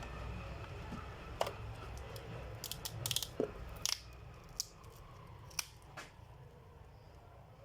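Irregular sharp clicks and snaps of small plastic laptop-screen parts being handled during disassembly, bunched in the middle and thinning out near the end, over a faint low hum.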